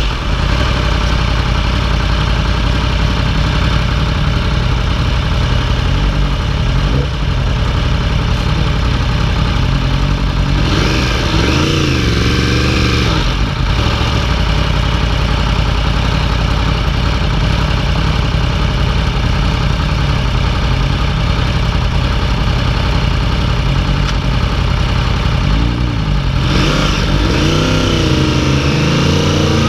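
2015 Yamaha YZF-R1's inline-four engine running at a steady ride over a constant rush of wind noise. About halfway through, the engine note dips and swings. Near the end it revs up in rising sweeps as the bike accelerates.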